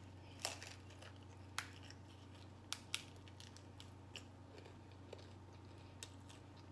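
A person chewing a steak taco with her mouth close to the microphone: scattered short, sharp clicks of chewing, the clearest around half a second, a second and a half and three seconds in, over a steady low hum.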